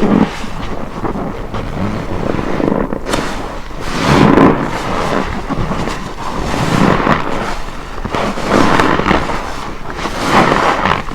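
Detergent-soaked car wash sponge being squeezed by hand: wet squelching and crackling foam, swelling with each squeeze, several squeezes a couple of seconds apart.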